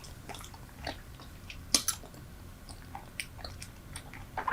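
Close-up chewing of a fresh mouthful of Super Bubble bubble gum: irregular wet smacks and clicks, one louder smack a little under two seconds in.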